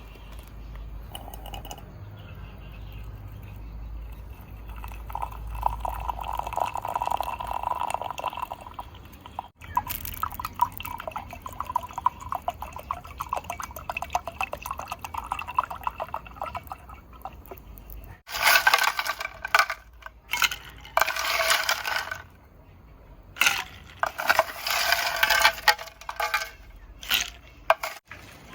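Liquid pouring and splashing into a container, then a run of loud, short rasping noises, several in a row.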